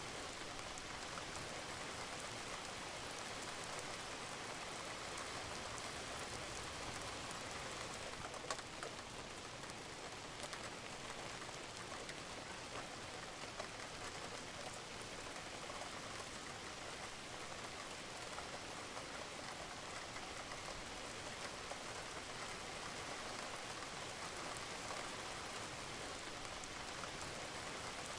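Steady rain falling on a roof, an even hiss with scattered sharp drop ticks, one louder tick about eight and a half seconds in.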